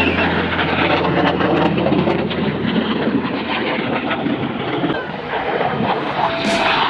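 Jet aircraft passing overhead: a loud, steady, rushing roar of jet noise.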